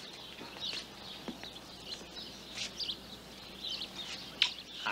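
Birds chirping in short, scattered calls, with the sharpest chirp about four and a half seconds in.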